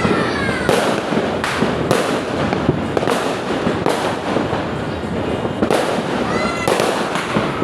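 Fireworks going off continuously: a dense crackling with sharp bangs about once a second.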